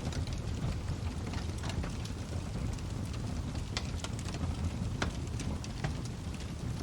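Log fire crackling, with irregular sharp pops and snaps, a few louder ones about four and five seconds in, over a low steady rumble of burning.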